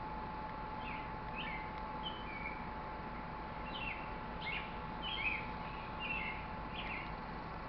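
Small birds chirping: a scatter of short, quick chirps and calls from about a second in until near the end, over a steady faint hum.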